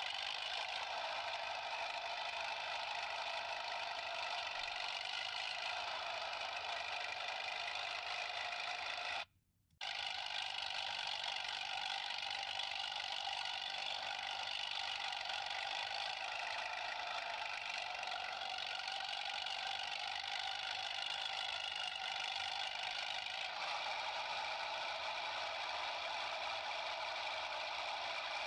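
A battery-powered toy tractor's small motor whirring steadily as the toy drives, a high, buzzy whine with a rattle. It drops out completely for about half a second some nine seconds in, then carries on unchanged.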